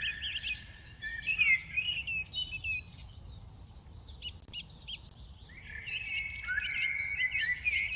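Several small songbirds chirping and singing together, many short overlapping calls and trills.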